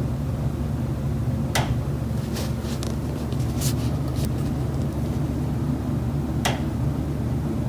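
Knocking inside a high-rise condo's kitchen wall, coming from the building's common elements: one sharp knock, then a quick irregular run of about six knocks, then one more knock near the end, over a steady low hum.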